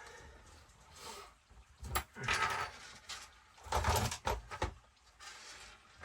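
Parts being handled on a workbench: a sharp click about two seconds in, then two bursts of scraping and rattling.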